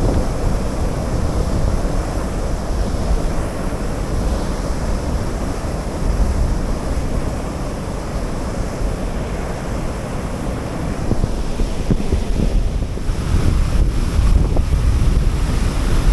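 Rushing water of a small cascade and fast river current heard close up, with wind buffeting the microphone.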